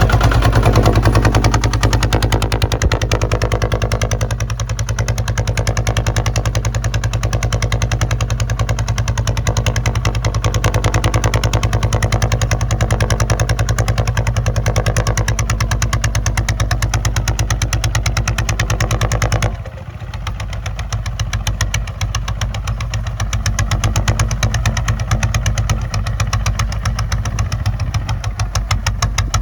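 Kubota ZT155 single-cylinder diesel engine running steadily with a rapid, even firing beat. About two-thirds of the way in, the engine note drops sharply and becomes quieter.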